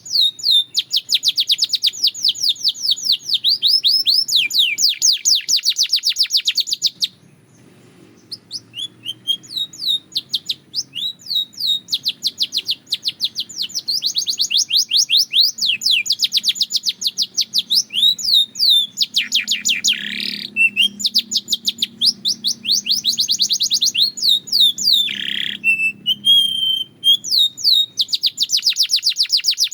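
A canary singing long runs of rapid, evenly repeated high chirped notes, with a brief pause about a quarter of the way in before the song resumes.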